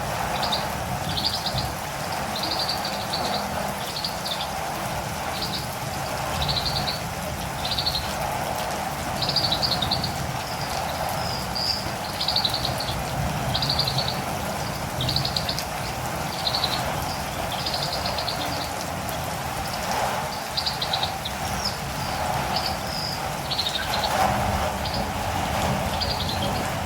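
Catirumbava (olive-green tanager) calling over steady rain: short, high, buzzy calls repeated about once a second.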